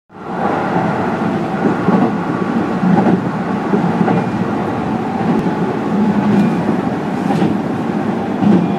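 Keihan electric train running along the track: a steady rumble of wheels on rail with a few heavier thumps.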